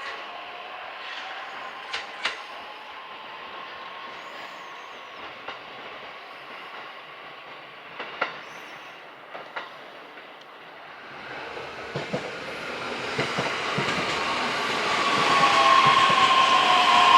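JR E131 series electric train with a hybrid SiC traction inverter, heard as a few sharp clicks and then growing louder from about eleven seconds in. Its inverter whine comes in as several tones that slowly fall in pitch, as on an approaching train slowing down.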